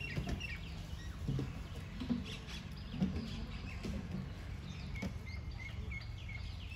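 Birds chirping in the trees: many short, high calls, some rising and some falling, over a steady low background rumble.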